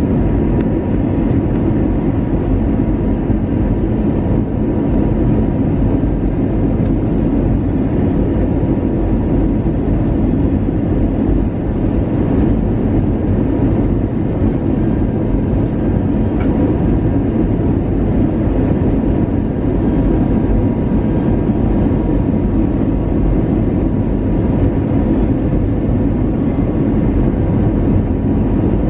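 Steady cabin noise inside an Airbus A320-200 in flight: an even rush of engine and airflow noise with a faint steady tone running through it.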